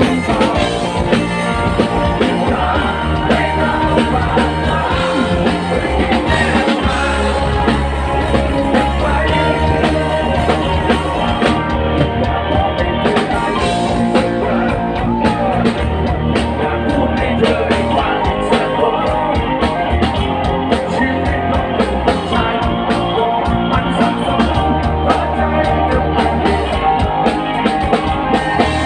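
Thai rock band playing live: electric guitar, bass and drums, with singing.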